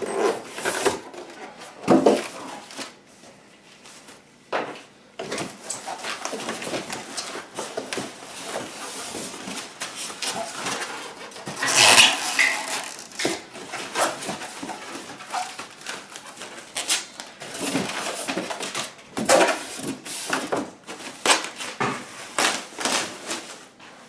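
Irregular rustling and knocking of packaging being handled as a subwoofer is lifted out of its box, with the loudest burst about halfway through.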